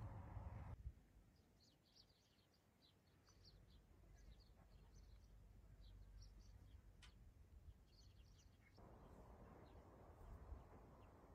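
Faint, scattered bird chirps over near silence. A low haze of noise is heard at the very start, stops about a second in, and returns near the end.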